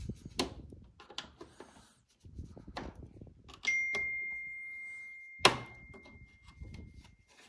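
Small clicks and knocks of dryer parts being handled and worked loose. About halfway, a single clear ding starts and rings on, slowly fading, with a sharp knock partway through it.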